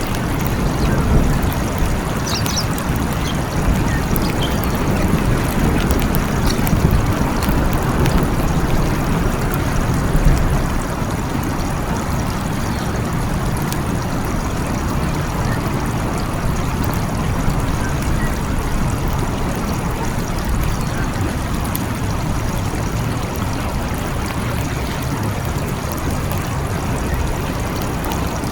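Steady rain with a low rumble of rolling thunder that dies away about ten seconds in, leaving the rain alone.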